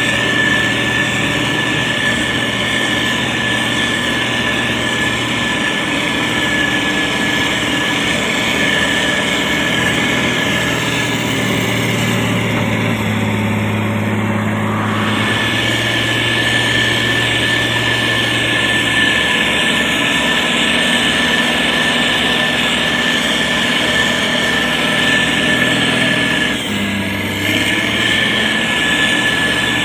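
Diesel engine of a SANY STG190C-8S motor grader running steadily under working load, with a steady high whine over it. The engine note shifts about halfway through and again near the end.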